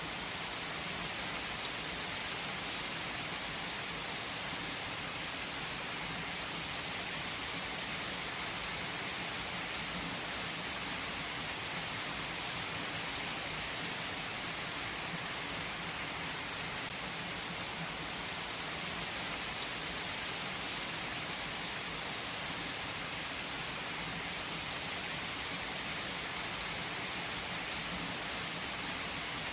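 Heavy rain falling steadily on trees and foliage, a dense even hiss of drops with the odd sharper drip standing out.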